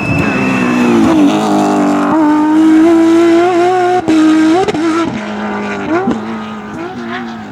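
Rally car engine running hard at high revs. About four seconds in the sound cuts off briefly, then the revs dip and rise again several times, as with lifts and gear changes.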